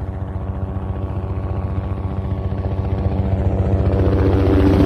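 Helicopter rotor blades chopping rapidly over a steady turbine-engine tone, growing louder as if the helicopter were approaching.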